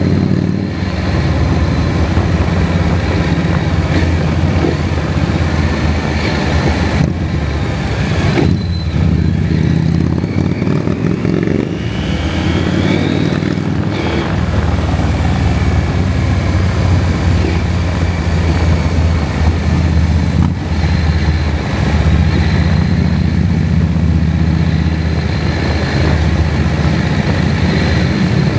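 KTM 790 Adventure's parallel-twin engine running steadily as the motorcycle rides along, with a few brief dips in the engine note.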